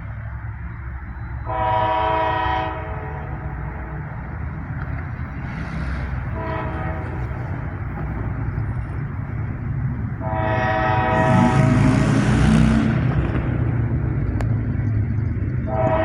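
Third-generation Nathan K5LA five-chime air horn on a Norfolk Southern locomotive, sounding a long blast, a short blast, another long blast, then starting a fourth near the end. Beneath it the locomotive and freight cars rumble steadily, louder as the train passes close by partway through.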